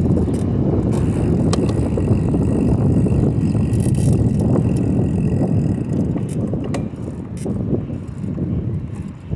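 A bicycle being ridden: a steady low rumble of wind on the microphone and tyre noise, with scattered light clicks and rattles from the bike.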